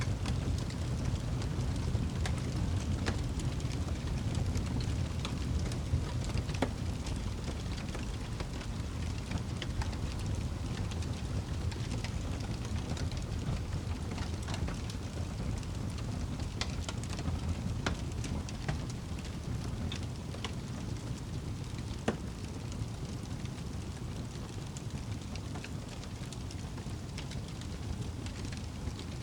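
Wood fire burning in a fireplace: scattered crackles and pops of the logs over a steady low rumble of the flames, with one sharper pop about three-quarters of the way through.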